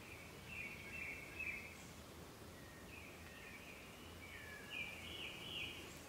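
Black paradise flycatcher calling: two runs of scratchy, chattering notes, a short one about half a second in and a longer one from about three seconds in, over a faint steady outdoor background.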